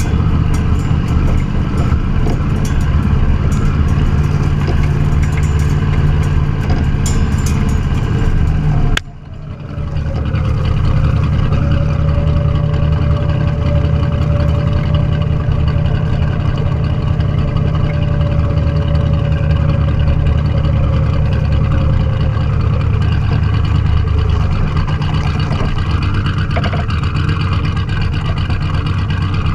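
A classic car's engine running hard and loud without a break, apart from a sudden short dip about nine seconds in.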